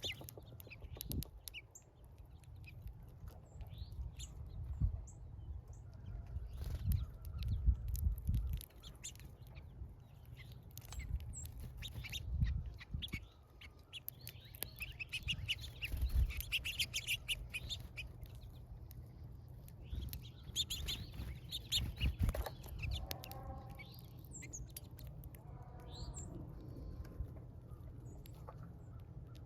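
Small birds at a feeder chirping on and off, with brief wing flutters and many short taps, the chirping busiest in the middle of the stretch; a low rumble runs underneath.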